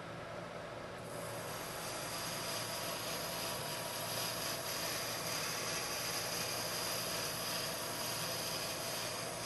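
Lathe running while a right-hand turning tool takes a hand-fed roughing cut of about fifty thousandths of an inch. A steady hiss of cutting rises about a second in as the tool bites, then holds.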